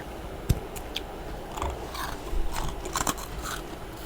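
Freezer frost crunched between the teeth in a series of short, crisp crunches and clicks.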